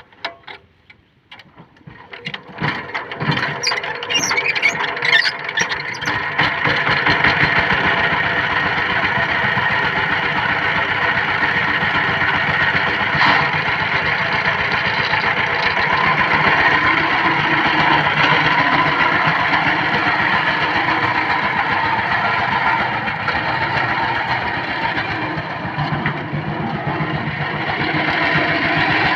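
Power tiller's diesel engine starting: a few slow, uneven strokes about two seconds in quicken and catch, and the engine then runs steadily.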